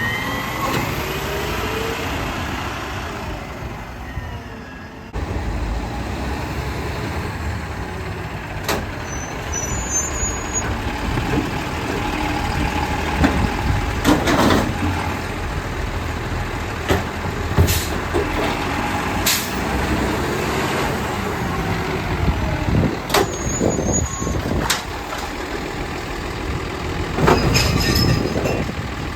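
Garbage truck running, with sharp bangs every few seconds and air-brake hisses.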